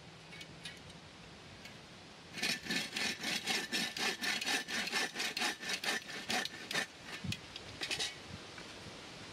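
A hand saw cutting through wood in quick, even strokes for about four and a half seconds, starting about two seconds in. Two or three more strokes come near the end.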